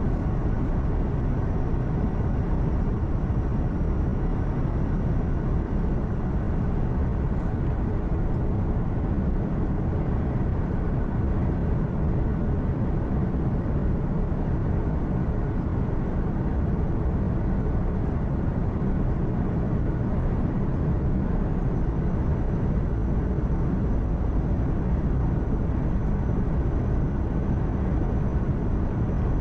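Steady low rumble of a truck's engine and tyre noise heard inside the cab while cruising, with a faint high whine and no sudden events.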